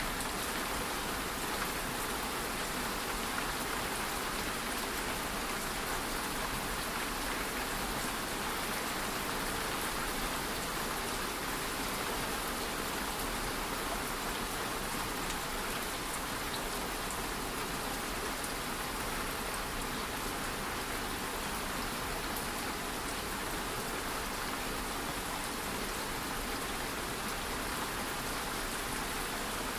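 Steady rain falling and pattering on a surface, with scattered fine drop ticks.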